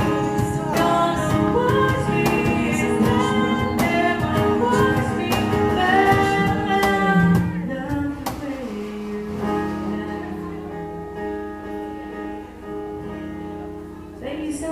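Strummed acoustic guitar with a voice singing over it. About eight seconds in, the strumming and singing stop and long held notes ring and slowly fade.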